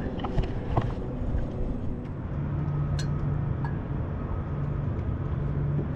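A boat's motor running with a steady low hum over a rumble, the hum growing stronger about two seconds in. There is a single sharp click about three seconds in.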